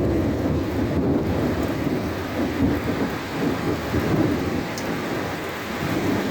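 Thunder rumbling in rolling swells over steady heavy rain.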